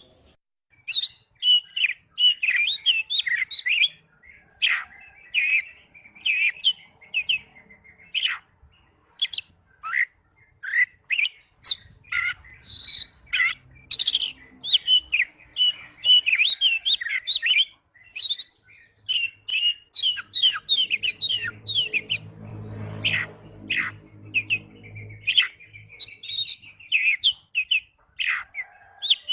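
Oriental magpie-robin (kacer) singing a loud, varied song of rapid whistles and chattering chirps, delivered in quick phrases with short pauses between them.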